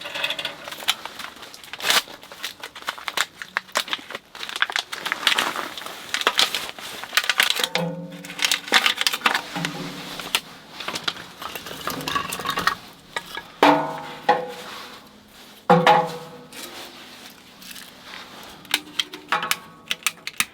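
Irregular clanks, knocks and rattles of metal camping gear being handled during camp setup, with a few sharp hits that ring on briefly.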